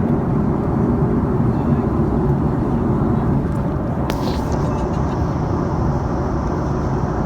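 Steady cabin noise inside an Airbus A310-304 airliner in flight: a low, even rush of airflow and engine sound, with one brief click about four seconds in.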